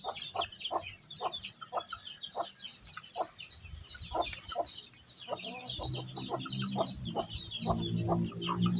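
Chickens: a dense run of rapid high peeping with short clucks among it. A low steady hum comes in about two-thirds of the way through.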